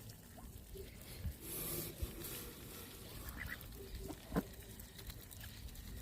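A flock of geese and a duck giving scattered short calls, fairly faint.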